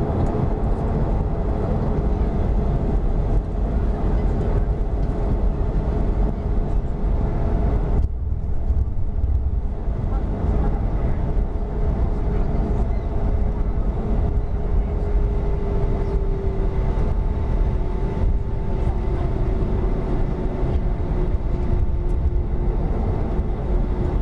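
Cabin noise inside a Boeing 737-300: a steady, loud rumble of the CFM56 jet engines with a humming tone over it. About eight seconds in, the higher hiss suddenly drops away, and in the second half the hum slowly falls in pitch.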